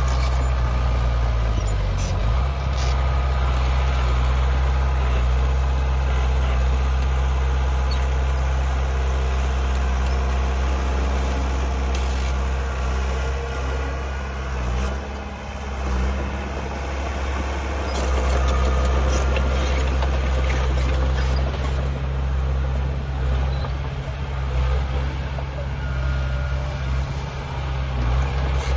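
Heavy diesel engine of earthmoving machinery running steadily under load, its note stepping down about two seconds in and changing again several times, with a few sharp metallic clanks.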